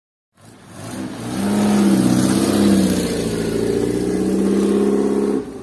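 Car engine revving, swelling up over the first second and held at high revs with small rises and dips in pitch for about four seconds, then dropping away near the end.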